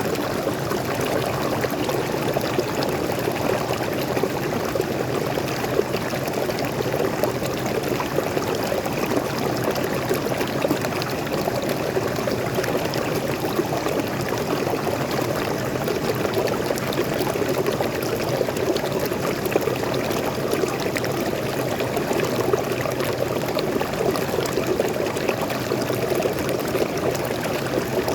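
Waterfall in a forest stream: fresh water pouring and splashing steadily, an unbroken rushing sound.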